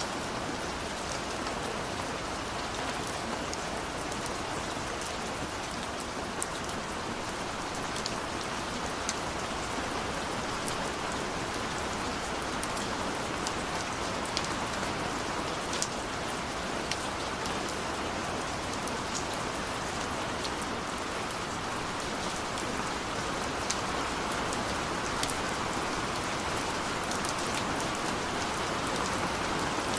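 Steady rain falling, with frequent sharp individual drop impacts ticking through the constant hiss.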